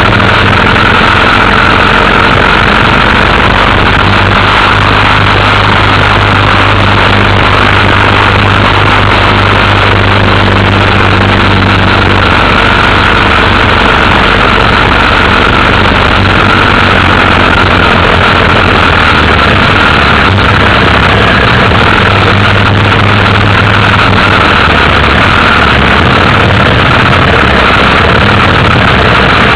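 Motorcycle engine running steadily while riding, under a loud constant rush of noise; the engine note shifts a couple of times, about twelve seconds in and again near the end.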